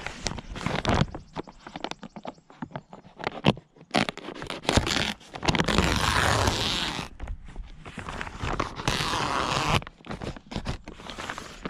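Greenhouse plastic sheeting rustling and crinkling as it is handled and pulled into place, with scraping and short clicks, and two longer stretches of rushing rustle.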